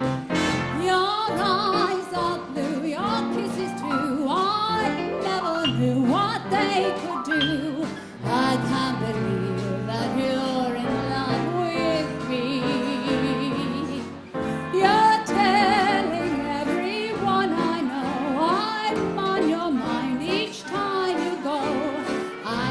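A big dance band playing 1930s-style swing music, with a vocalist singing over the band.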